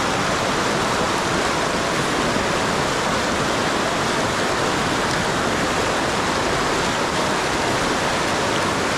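Salmon River current rushing steadily over rocks, a loud unbroken rush of water.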